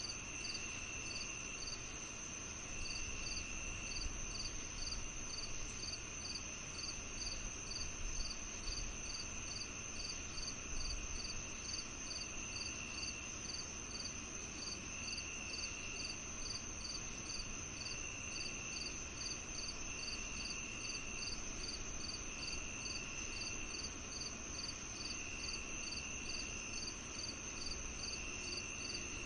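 Chorus of crickets on a summer evening: one steady high trill, another chirping evenly about twice a second, and a lower trill that starts and stops every few seconds.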